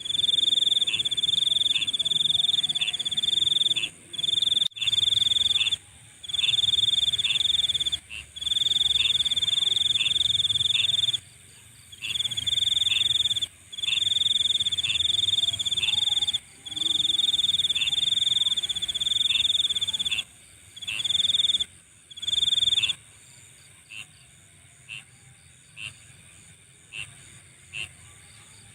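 Night insect chorus: a loud, high buzzing trill comes in bouts of one to a few seconds, with short chirps about once a second and a steady high-pitched drone behind. About 23 seconds in the trilling stops, leaving only the single chirps and the drone.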